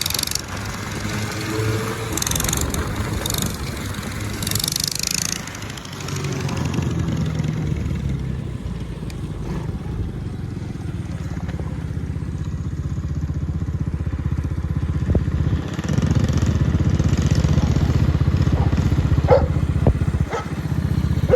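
Governor-deleted 196cc single-cylinder engine on a minibike with a header pipe, running and revving as the bike is ridden. It gets louder about sixteen seconds in, and there are short bursts of hiss in the first five seconds.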